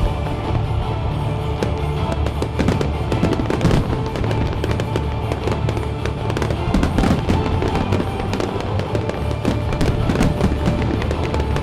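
Aerial fireworks going off in rapid succession, a dense run of bangs and crackles, over loud music accompanying the display.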